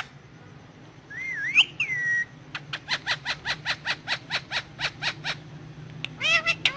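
Indian ringneck parakeet vocalising: a whistle that bends up and down in pitch, then a quick even run of short chirps, about five a second, and a brief burst of calls near the end.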